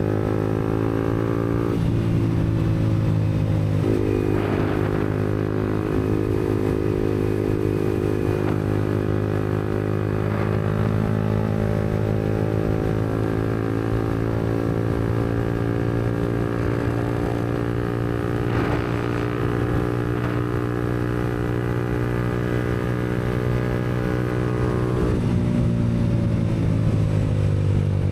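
Yamaha MT-125's single-cylinder four-stroke engine running through an aftermarket Black Widow exhaust while the bike cruises. The engine note changes pitch a couple of times early on and again near the end, and holds steady in between.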